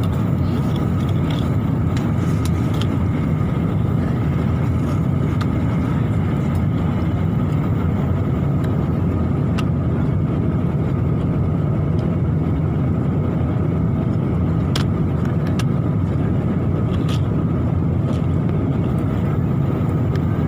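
Steady low drone of engine and air noise inside an airliner's passenger cabin, with a few faint clicks.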